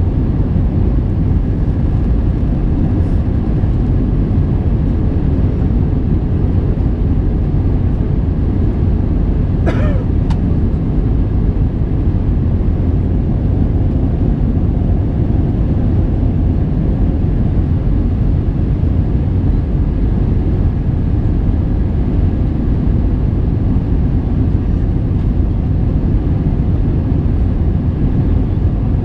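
Steady in-flight noise of an Airbus A321-231 heard from the cabin: its IAE V2500 turbofan engines and the airflow over the fuselage make an even, loud rumble and hiss. A single short click sounds about ten seconds in.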